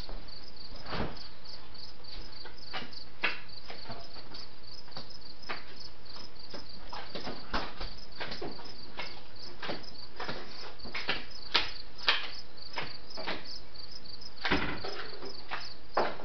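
Crickets chirping steadily in a fast, even pulse, with scattered sharp clicks and knocks on top.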